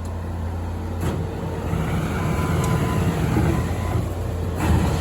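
A vehicle or machine engine running steadily at low revs, with two brief knocks, about a second in and near the end.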